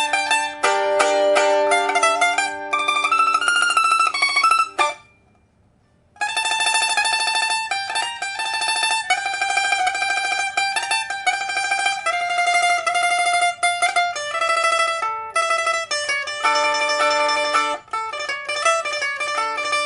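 Rosewood liuqin, a small Chinese pear-shaped lute with a steel first string, freshly repaired with a new soundboard and handmade steel frets, played as a test. It gives a plucked melody with fast tremolo passages. The playing stops for about a second around five seconds in, then resumes.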